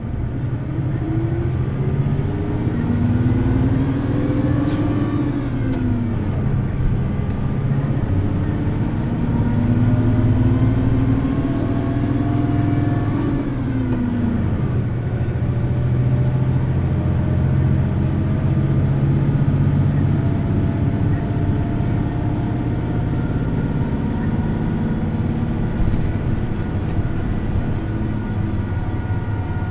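Hino Blue Ribbon City Hybrid city bus under way, heard from inside: its diesel engine runs at high revs, with the engine note climbing and then dropping about 5 and 14 seconds in. Over it, a high whine rises, holds and falls three times as the bus speeds up and slows down.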